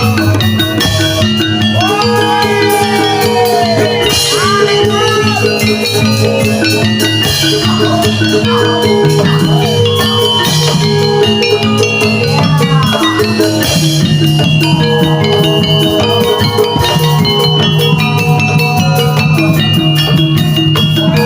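Javanese jaranan (jaran kepang) music: gamelan metallophones ringing steady notes over drums, with a melody line that slides up and down in pitch now and then.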